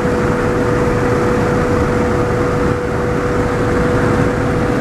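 A vehicle driving at a steady pace: engine and road noise with a steady hum running through it.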